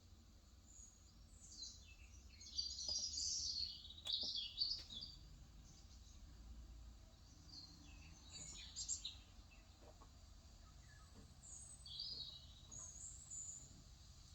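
Small birds chirping and twittering in quick high clusters, busiest in the first few seconds, with shorter bursts around the middle and near the end. A few faint clicks are scattered in between.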